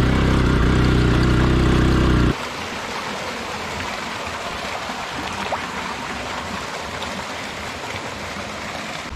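A motorcycle engine running steadily, cut off abruptly about two seconds in, leaving the steady rush of flowing stream water.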